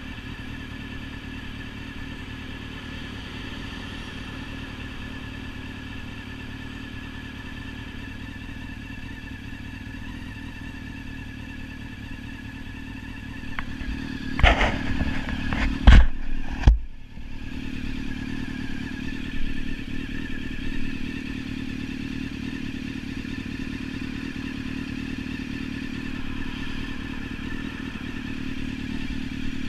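Sport motorcycle engine idling steadily while the bike stands still. About halfway through come a few loud knocks and bumps, after which the idle sounds a little louder.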